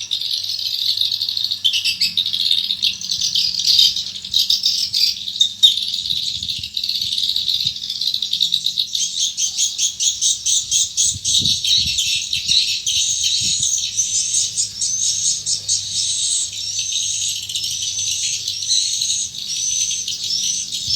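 Swiftlets twittering at a swiftlet house: a dense run of rapid clicking chirps, with clearer rising chirps near the end, over a steady low hum.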